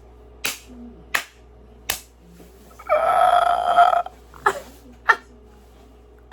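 A man burps once for about a second, partway through, between short, sharp mouth clicks and smacks from eating doughnuts.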